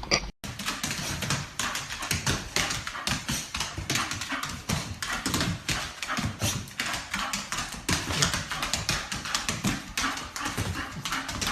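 Dog making rapid, irregular tapping and scratching sounds, like claws on a hard surface, that keep going without a break.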